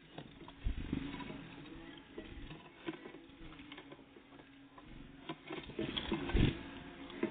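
Irregular light taps and knocks of small birds pecking and hopping at a bird feeder, with two heavier thumps, one near the start and one near the end, as birds land or strike the feeder.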